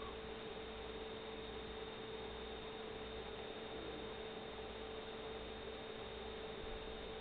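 Reed-switched pulse motor running: a steady, even hum with hiss behind it.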